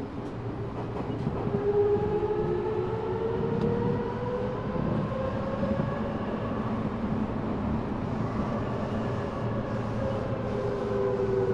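Running sound of an Eidan 6000-series subway car, recorded from the car floor. The whine of its Mitsubishi three-level VVVF inverter, reused from the 7000 series and higher-pitched than on other 6000-series cars, rises in pitch as the train picks up speed, over a steady rumble of wheels on rail. Near the end another set of whine tones comes in and falls slightly.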